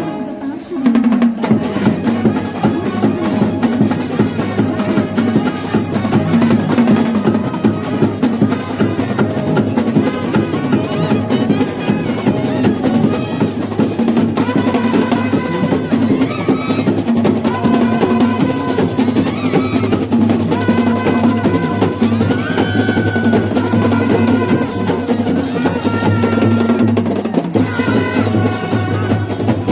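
Kerala temple-festival melam drum ensemble playing a dense, fast rhythm, with a wind instrument adding held melodic notes from about halfway in.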